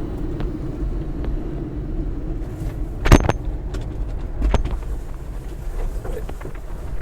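1993 Suzuki 4x4 mini truck driving, its engine a steady hum over low road rumble. A sharp knock comes about three seconds in, and a smaller one a second and a half later.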